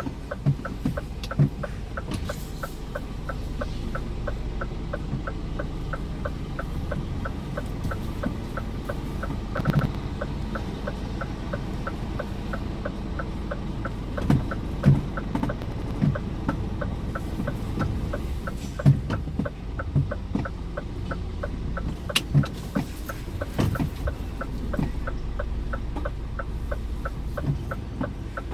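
Truck indicator ticking steadily, about two to three clicks a second, over the low, steady run of the Scania R410's diesel engine, heard from inside the cab. Occasional low thumps come through now and then.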